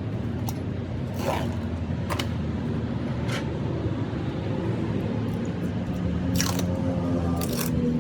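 An engine running steadily, with several short noisy bursts over it.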